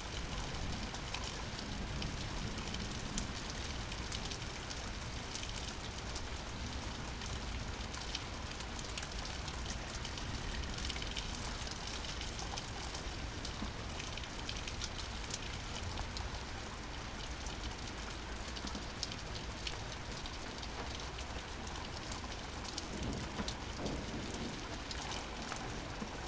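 Steady rain falling, with many single drops ticking sharply on a hard surface close by.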